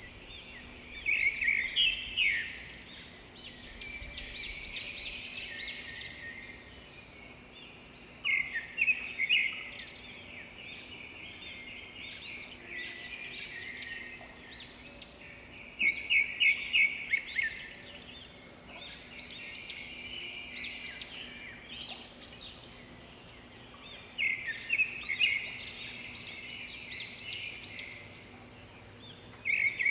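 A bird singing: a loud burst of rapid, high chirping notes about every seven or eight seconds, with fainter chirping of other birds carrying on between the bursts.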